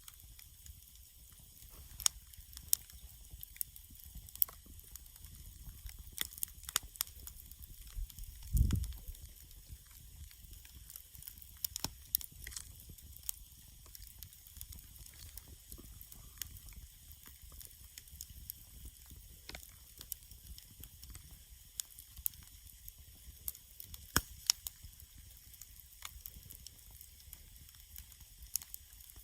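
Wood campfire crackling: sharp, irregular pops over a steady hiss, with one low thud about a third of the way through.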